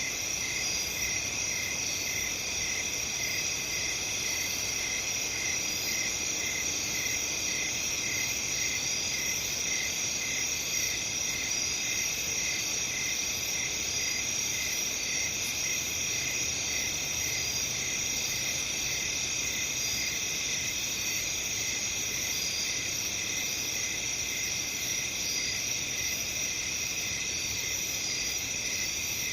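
A chorus of crickets chirping steadily: a continuous high trilling with an even, slower chirp pulsing about two to three times a second.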